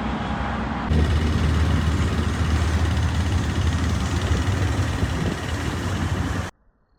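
Jet airliner engine noise, a loud, steady, low-heavy sound that jumps louder about a second in at an edit and cuts off abruptly near the end.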